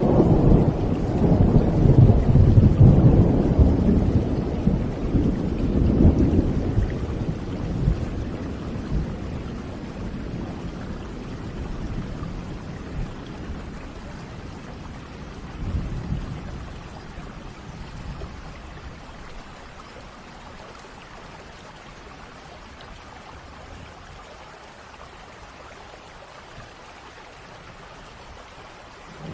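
Thunder rumbling over steady rain: a long, loud roll of thunder in the first several seconds, a smaller rumble about halfway through, then rain alone.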